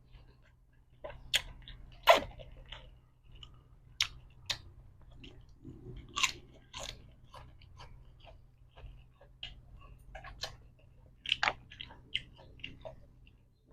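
A person chewing and biting into a spicy Thai seafood salad of blood cockles and cuttlefish, with irregular crunches and wet mouth clicks.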